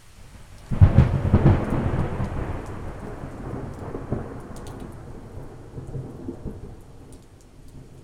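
A thunderclap: a sudden sharp crack a little under a second in, then a long rolling rumble that slowly dies away, with light rain hissing underneath.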